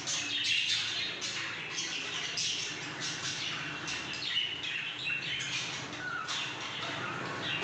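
A group of small birds chirping continuously, with many short calls overlapping.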